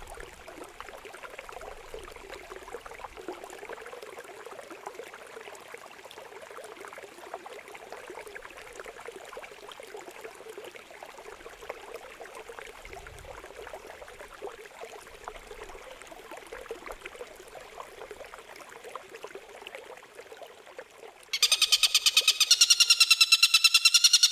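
Gently trickling water, a steady even splashing, for most of the time. About three-quarters of the way in, a loud songbird recording cuts in abruptly: fast, harsh, rapidly repeated notes of the kind used as a training song for cage birds.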